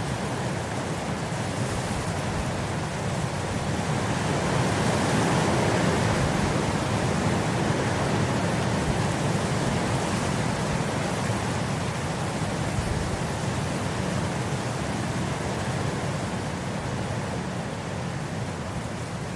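Wind blowing across grass: a steady rushing noise that swells a few seconds in and eases off toward the end.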